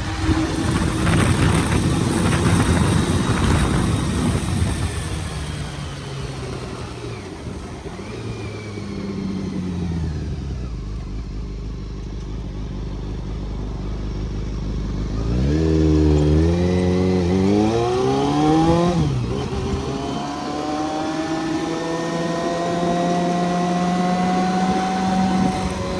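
Honda CBR400RR's inline-four engine under way. It runs low and steady, then accelerates hard about two-thirds of the way through. The pitch climbs and falls back with each of several quick upshifts. It then pulls on with a slowly rising pitch.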